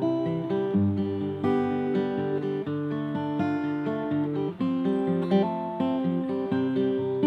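Acoustic guitar strumming chords in an instrumental passage between sung lines.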